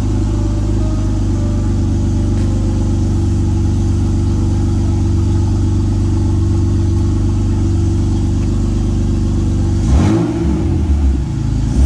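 BMW E46 engine idling smoothly without a misfire, then revved about ten seconds in, its pitch rising and falling.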